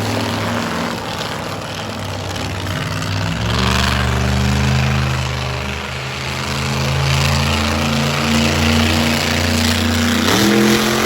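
A large engine running loudly, stepping up in revs about three and a half seconds in and rising again near the end.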